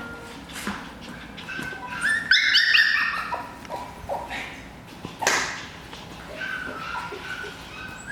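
Goldendoodle puppies yipping and whimpering in short, high-pitched cries, loudest and most frequent between about two and three and a half seconds in, with a few sharp knocks.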